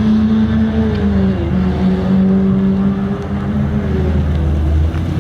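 Car engine running at a steady speed, a constant droning note that sags slightly in pitch a couple of times.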